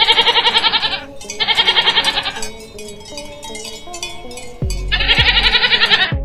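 Goats bleating: three long, quavering bleats of about a second each, the third coming after a gap of a couple of seconds, over background music.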